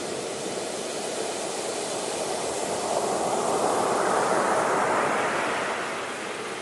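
Ocean surf: a steady wash of waves, with one wave swelling to its loudest about halfway through and then receding.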